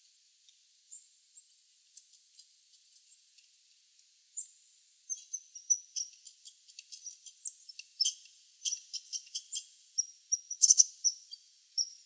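Birds chirping: a few faint short high chirps at first, then from about four seconds in a quick, dense run of short sharp chirps.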